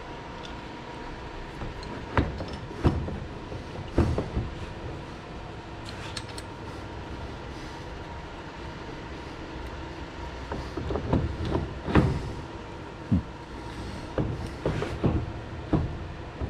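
Metal parts and tools being handled during lathe reassembly: scattered sharp clicks and knocks, in two clusters, over a steady shop hum.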